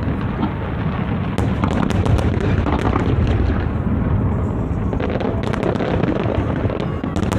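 Large aerial fireworks display heard from a distance: a continuous low rumble of overlapping shell bursts with many sharp crackles and pops scattered through it.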